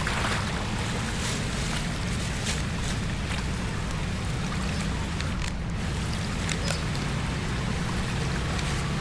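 Steady noise of water from a flooded road in heavy rain, with a low rumble underneath and a few faint ticks.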